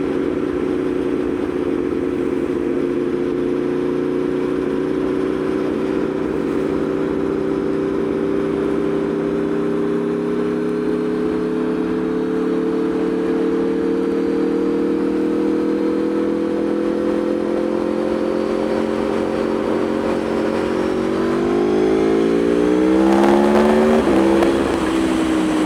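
Aprilia Tuono V4 motorcycle's V4 engine under way at a steady cruise, its pitch creeping slowly upward, then revving up quickly in steps about 21 seconds in before easing off near the end, over steady wind noise.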